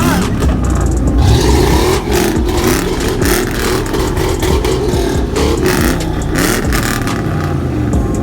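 Car engine revving over and over, its pitch rising and falling, with scattered sharp cracks.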